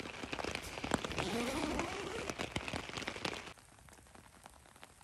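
Steady rain pattering on the tent fabric, heard from inside the tent as a dense patter of drop ticks. It cuts off suddenly about three and a half seconds in, leaving a much quieter background with a few scattered drips.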